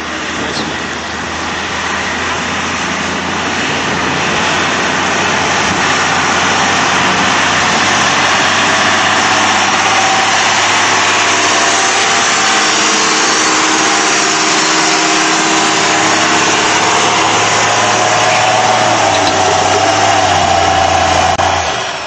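2001 Dodge Ram 2500's Cummins turbodiesel engine running hard and steadily under load while pulling a weight-transfer sled. It gets louder over the first several seconds, then holds steady.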